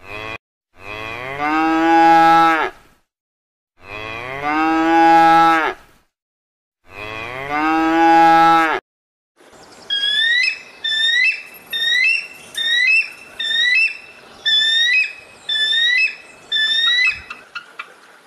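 A Highland cow mooing three times, long drawn-out moos. Then a bald eagle calling: a run of about a dozen short, high piping chirps, less than a second apart.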